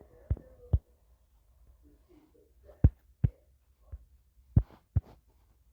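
About seven short, sharp clicks or taps with a dull low thud, spaced unevenly, made while drawing a map outline on a computer or tablet.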